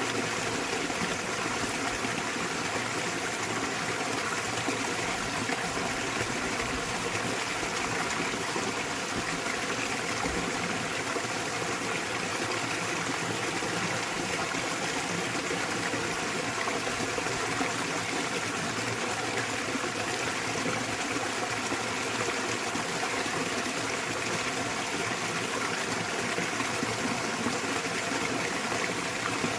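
Small waterfall pouring steadily into a mountain stream: an even, continuous rush of falling and splashing water.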